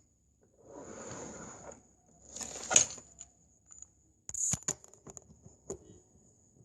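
Close handling noise: a rustling, scraping stretch, then a few sharp clicks and taps, over a faint high steady whine.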